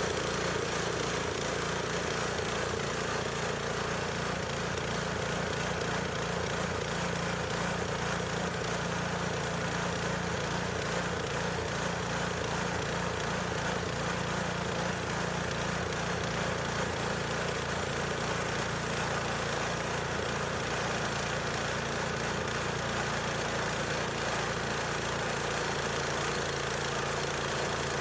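Small portable bandsaw sawmill with a gas engine, running steadily while it cuts box elder.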